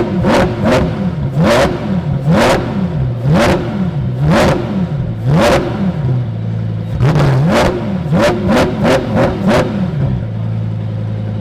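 Performance car engine revved hard at a standstill in repeated short blips, each rising and falling in pitch with a sharp crack at its peak: about one a second, then after a short pause a quicker run of blips, before it drops back to a steady idle near the end.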